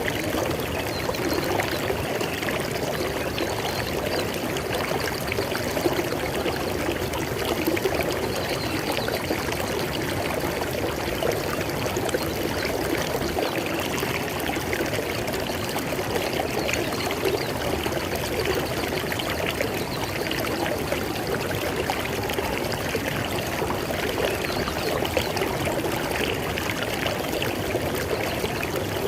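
River water flowing steadily over rocks, a continuous splashing and gurgling rush.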